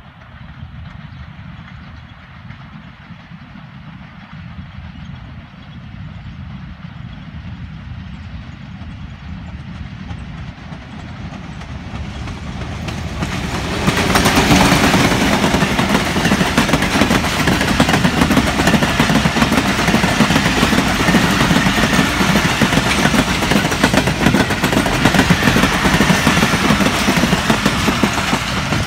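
A Pakistan Railways diesel locomotive hauling a passenger train approaches, growing steadily louder, and passes close by about halfway through with a sudden jump in level. After it, the passenger coaches roll past with loud, steady wheel-on-rail noise.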